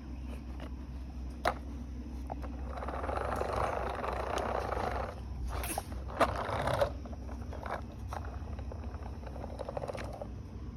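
Electric fan running with a steady low hum. A rushing, hissing noise swells twice, and there are a few sharp clicks.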